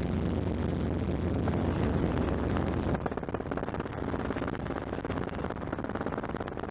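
Helicopter running, its engine and rotor giving a steady low drone. About three seconds in the sound drops a little and turns into a fast, even chopping of the rotor blades.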